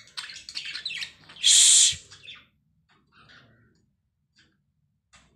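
Lovebirds chattering with rapid high chirps, cut across about a second and a half in by a loud human "shhh". After it the birds drop to a few faint chirps and then fall nearly silent.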